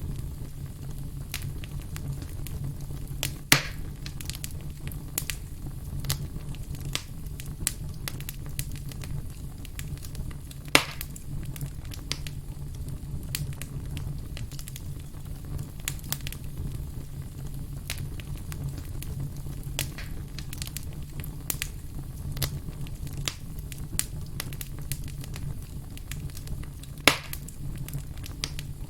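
Wood campfire crackling, with a steady low rumble under many small snaps. Three louder sharp pops stand out: a few seconds in, about a third of the way through, and near the end.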